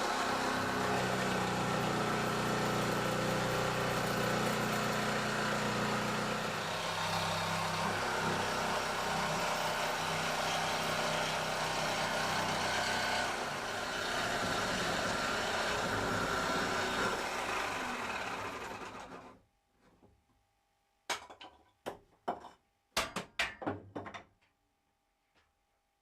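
A power tool runs steadily, cutting the hole for the exhaust duct, and cuts out about 19 seconds in. A handful of sharp knocks and clicks follow near the end.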